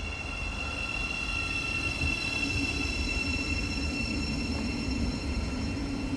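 Electric trains at a station platform: a steady high electric whine, with a low hum coming in about two seconds in and the overall sound growing gently louder.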